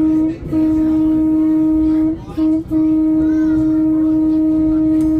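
Trolley horn sounding one steady tone in the grade-crossing pattern: a long blast ends just after the start, then another long blast, a short one, and a final long blast of about two and a half seconds. Long-long-short-long is the signal for approaching a road crossing.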